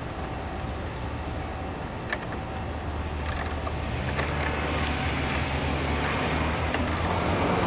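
Car engine running steadily, with a rushing noise that grows louder from about four seconds in and a few light, high-pitched ticks.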